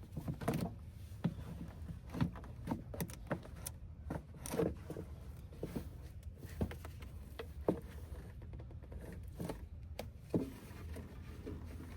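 Irregular clicks and knocks of hard plastic being handled as the F250's air-filter housing is opened and the filter is worked out, over a low steady rumble.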